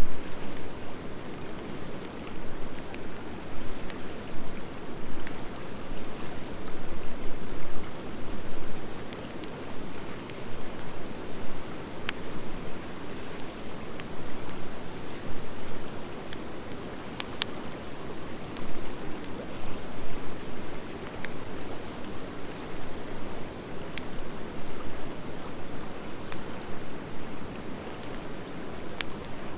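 Wood fire of driftwood and hardwood logs burning: a steady rushing noise that swells and eases, with a few sharp crackles and pops scattered through.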